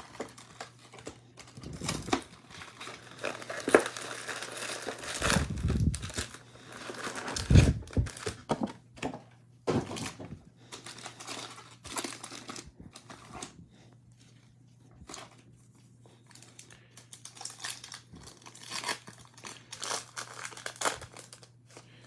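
Plastic foil wrapper of a trading card pack being torn open and crinkled, in irregular bursts of crackling and rustling, with cards shuffled in between.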